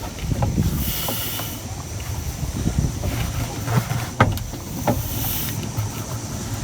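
A new rotary-helm steering cable being pushed by hand into its run through the boat's hull: rustling and scraping handling noise, with a few sharp clicks and knocks, the loudest about four seconds in.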